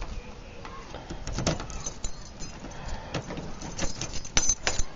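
A car key on its ring being handled: scattered light clicks and knocks with short metallic jingles, busier near the end.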